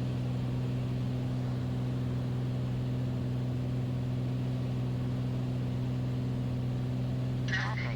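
Beechcraft Bonanza's piston engine and propeller droning steadily in the cockpit, a constant low hum with no change in pitch.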